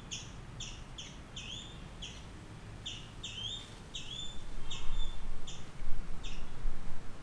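A small bird repeating a short chirp about twice a second, some notes ending in a rising tail; the calls stop a little after six seconds in. From about four seconds in, a louder low rumble comes in and becomes the loudest sound.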